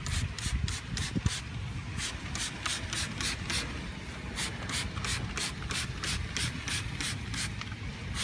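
Trigger spray bottle of car-care product being pumped in quick repeated squirts, about three a second, over a steady low rumble.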